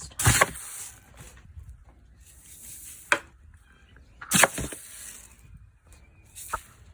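Four sharp knocks or clatters spaced a second or more apart, over a faint rustling hiss: barn chores being handled.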